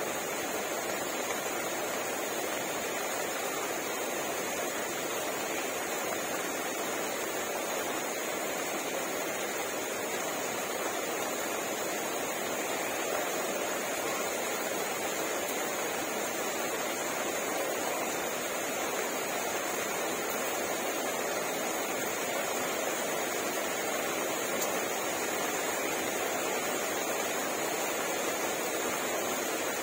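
Steady, even rain falling at night, a continuous hiss without pauses or distinct drops.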